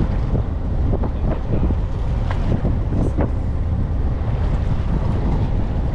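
Fishing boat at sea: a steady low rumble of the boat running, with wind buffeting the microphone and a few light knocks.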